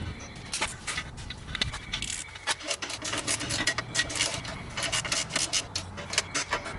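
Rapid, irregular metallic clicking and scraping of hand tools and bolts being worked on exhaust hardware.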